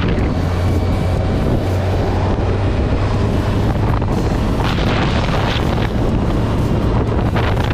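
Kawasaki Z1000SX's inline-four engine running at a steady cruise as a low drone, under heavy wind buffeting on the microphone. The wind surges about five seconds in.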